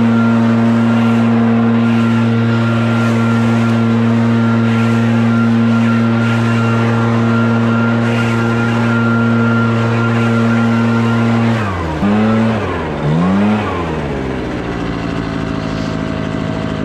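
Scag Windstorm stand-on leaf blower's engine running steadily at high speed with the blower's rushing air. About twelve seconds in the throttle drops and comes back up twice, then the engine settles at a lower speed.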